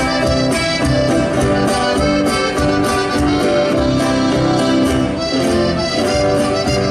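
Argentine folk music led by an accordion, playing steadily with a regular beat.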